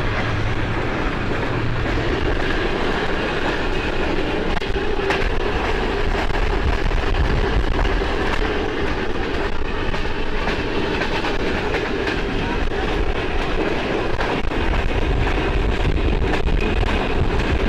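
A moving train running on its tracks: a steady rumble and rush of wheels on rails, with light clacking.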